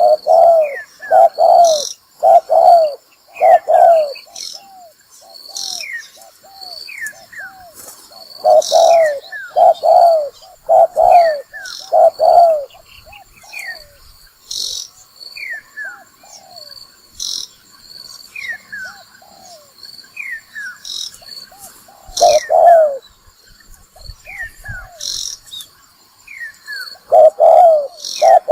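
Spotted dove lure call: loud coos in groups of about four, repeated every several seconds, with softer, quicker coo notes in between. Behind them, small birds give short falling chirps and insects buzz steadily.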